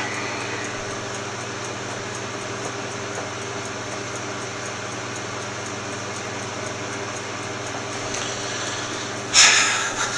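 Steady background hum and hiss, like a fan or air conditioner running. About nine seconds in there is one sudden, louder noisy rush that fades quickly.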